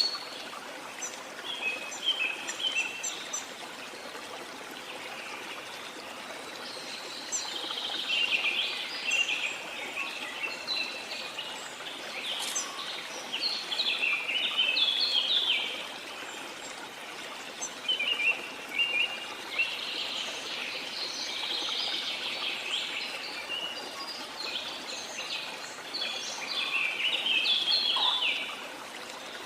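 Several birds singing in quick chirps and trills over the steady sound of falling water from a waterfall. The birdsong comes in busy spells, thinning out briefly in between.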